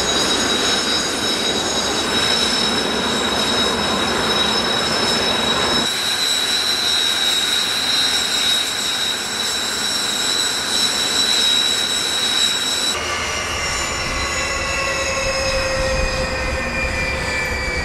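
Whine of Blue Impulse Kawasaki T-4 jet engines: several steady high whistling tones over a rushing noise, changing abruptly about six and thirteen seconds in. In the last few seconds the tones slowly fall in pitch as a jet passes.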